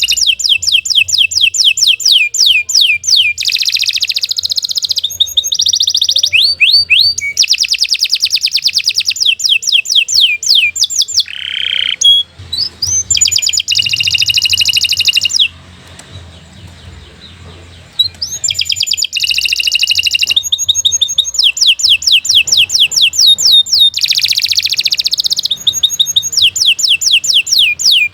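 Domestic canary singing in long phrases of fast, rapidly repeated trill notes, high-pitched. There is a pause of a couple of seconds a little past halfway.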